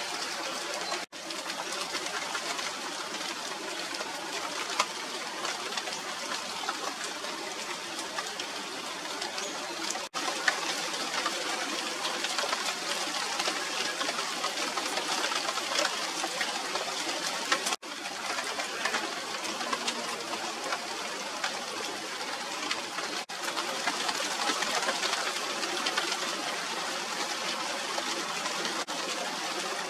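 Steady rain falling on the leaves of a tree, an even hiss that briefly drops out four times.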